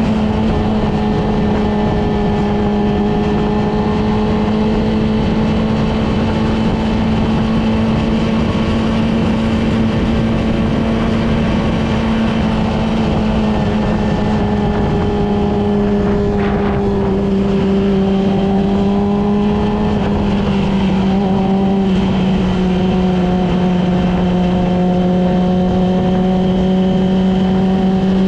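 Yamaha R6's inline-four engine running at a steady cruise, its pitch holding even and sinking slightly over the second half as the revs ease off, over steady wind and road noise.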